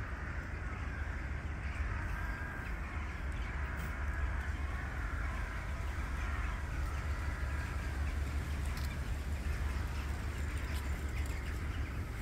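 Birds calling now and then over a steady low rumble.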